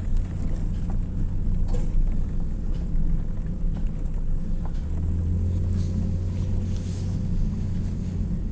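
Car engine and road noise heard from inside the cabin as the car drives on: a steady low rumble that deepens into a heavier hum about five seconds in.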